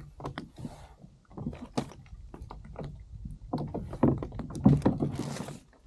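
Irregular clicks, knocks and clunks of fishing gear handled on a kayak, with two short hisses about a second in and near the end.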